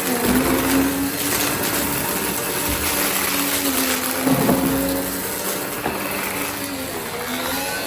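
Goodmans TurboMax vacuum cleaner running: a steady motor hum over a rush of air, with a brief wobble in pitch about four seconds in.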